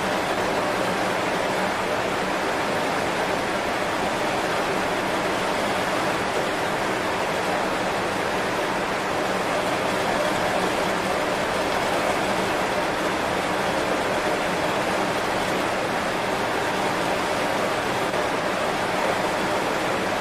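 Heavy rain falling on banana leaves, a steady even hiss with no single drops standing out.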